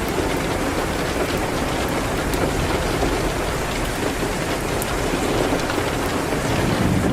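Steady rain hitting a window, a constant hiss with scattered small ticks.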